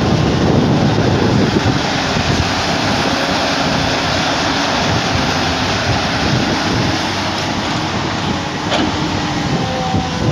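Tata Hitachi excavator's diesel engine running steadily under working load, a dense low rumble.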